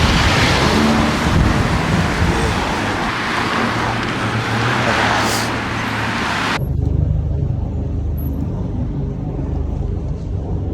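Wind rushing over the microphone while cycling, with the low rumble of road traffic underneath. About six and a half seconds in, the hiss cuts off suddenly and only the low rumble is left.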